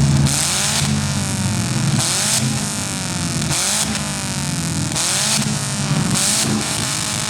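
Engines of several compact demolition derby cars revving hard over and over, pitches repeatedly climbing and dropping. Five short bursts of hiss cut in, about one every second and a half.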